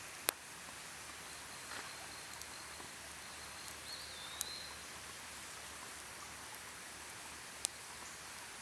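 Campfire crackling, with a few sharp pops over a steady hiss; the loudest pop comes just after the start, and others come near the middle and near the end.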